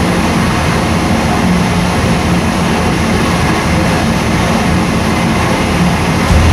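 Small-block Chevy 427 engine running at a steady speed on an engine dyno: a loud, even drone with no rise or fall in pitch.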